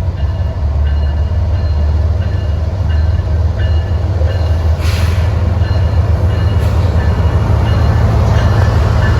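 CSX freight train L620 rolling by with a steady, loud low rumble. Faint short high tones recur throughout, and there are two sharp clanks about five and six and a half seconds in.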